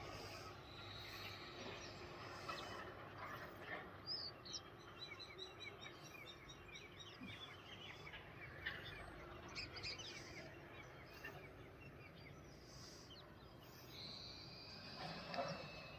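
Faint outdoor ambience with small birds chirping: many short, high chirps come thickest through the middle, with a longer call near the end.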